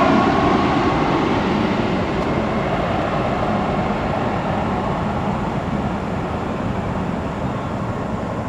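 Jet airliner's engine noise, a broad steady rumble that slowly fades away as the aircraft moves off.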